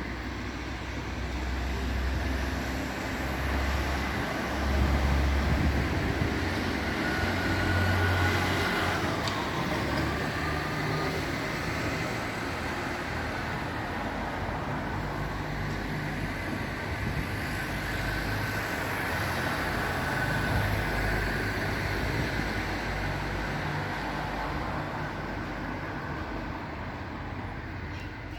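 Continuous road traffic noise from a busy street: a steady rumble of passing cars, with heavier vehicles swelling loudest about five and eight seconds in.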